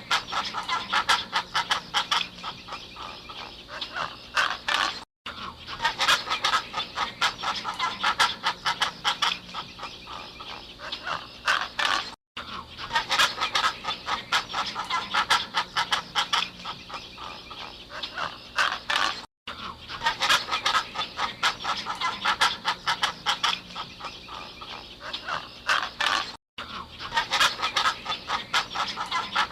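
A flock of birds calling, many short calls in quick succession. A recording about seven seconds long plays over and over, each repeat split from the next by a brief silent gap.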